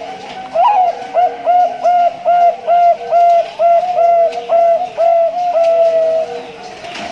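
Male zebra dove (Bangkok perkutut) singing: a quick run of about fourteen short, clipped coos, starting about half a second in and stopping about a second before the end. Fainter cooing from other doves goes on underneath.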